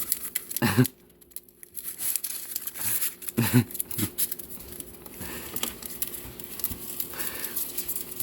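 Paper plates rustling and tearing, with many small crackles and clicks, as the conure works at them. Two brief low voice sounds come about a second in and again about three and a half seconds in.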